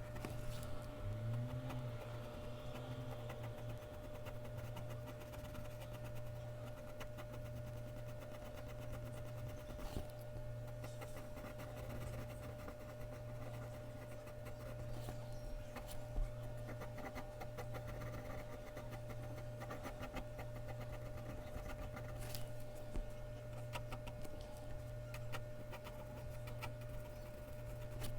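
Mechanical pencil scratching on Bristol paper in many short, irregular strokes, over a steady electrical hum.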